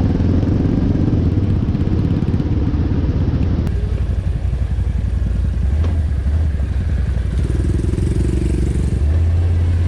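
ATV engine running as the quad is ridden along a dirt trail, its note changing a few times.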